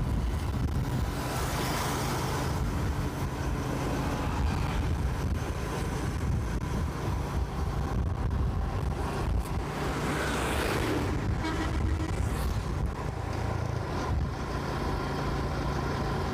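Motorcycle engine running steadily while riding along a road, with wind and road noise, and traffic swelling past about two seconds in and again around ten seconds.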